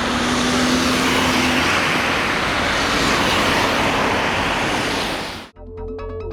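Road traffic: a car passing close, a loud steady rush of tyre and engine noise with a low engine hum for the first second or so. About five and a half seconds in it cuts off abruptly into electronic music.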